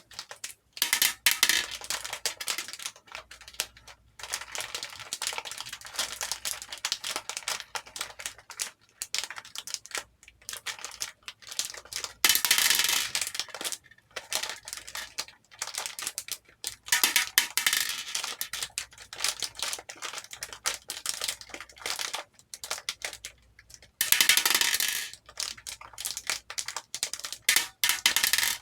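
Many small plastic hair beads clicking and rattling against a bowl as they are poured and stirred. Four times the clicking swells into a dense, louder rush of pouring lasting about a second.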